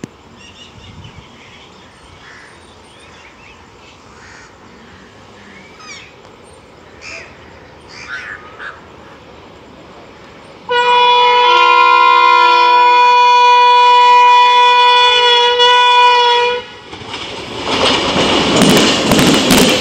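An Indian Railways electric locomotive's horn sounds one long blast of about six seconds as the express train approaches. Near the end the train arrives and passes with a loud, rising rush of wheel and rail noise.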